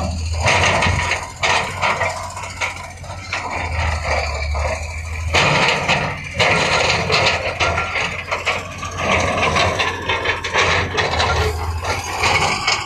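Heavy construction machinery at work: a diesel engine running steadily underneath irregular loud clanks, knocks and scraping of rock and metal.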